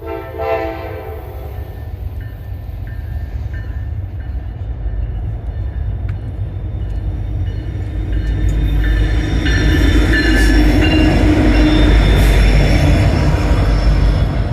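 A diesel freight train's horn gives a short blast, about a second long. Then the diesel locomotives' rumble and the wheel and rail noise of a Norfolk Southern coal train grow steadily louder as it approaches, loudest near the end.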